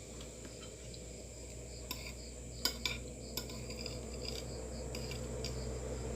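Cutlery clinking against a plate a few times in quick succession near the middle, over a steady low hum.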